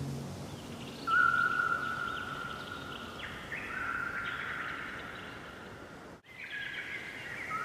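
Songbirds singing and chirping over one another, with trilled phrases and a longer whistled note. The sound cuts out for a split second about six seconds in.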